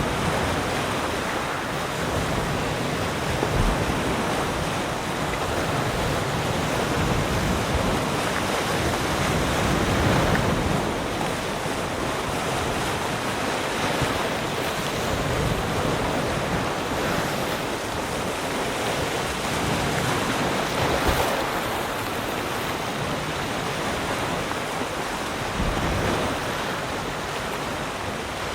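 Ocean waves breaking and washing on a shore: a steady rushing surf that swells and ebbs every few seconds.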